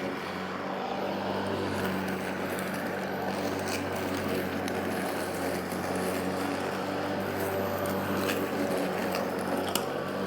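Battery-powered electric lawn mower running steadily while cutting grass, its motor and spinning blade giving an even hum. A few sharp ticks come near the end.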